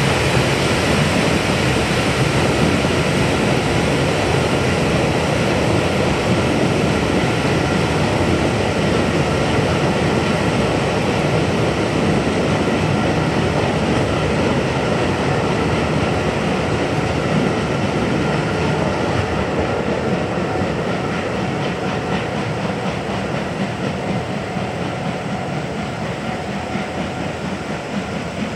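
Train hauled by the steam locomotive D51 200 rolling past: a steady rumble and clatter of wheels on the rails, slowly fading over the last half.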